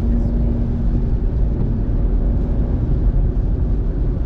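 Road noise heard inside a moving car's cabin: a steady low rumble of tyres and engine, with a faint humming tone that fades out about a second in.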